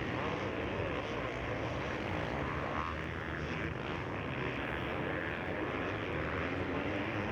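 Motocross bike engines running steadily on track, a continuous buzzing drone with no sharp events.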